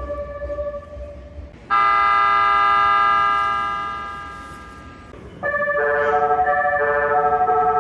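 Train horns: a loud, steady horn chord of several tones sounds about two seconds in, holds for over a second, then dies away. Then a horn starts up again playing a short tune of changing notes, like a train's music horn.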